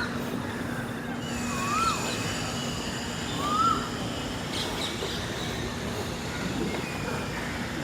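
A bird calling in short clear arched notes, one about every two seconds, over outdoor ambience with a faint steady hum.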